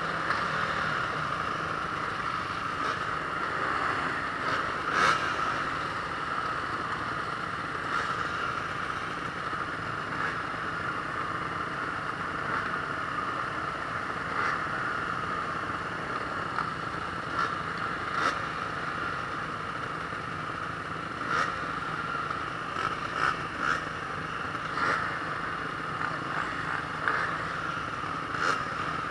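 Honda CRF450R four-stroke single-cylinder motocross engine running steadily through a race heat, with sharp knocks now and then.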